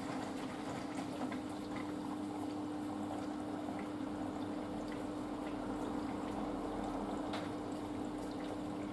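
Panasonic front-loading washing machine on its wool cycle, with water running and splashing inside it over a steady low hum from the machine.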